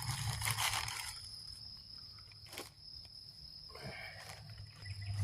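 Insects chirring in one steady, high-pitched tone, with a single sharp click about two and a half seconds in.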